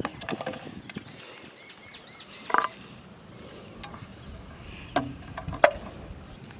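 A small bird chirping a quick run of short high notes outdoors, with a few sharp knocks of handling now and then; the knocks are the loudest sounds.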